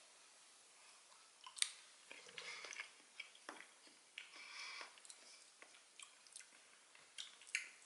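Faint mouth sounds of a person eating a spoonful of MRE cheese spread: quiet chewing with scattered small clicks.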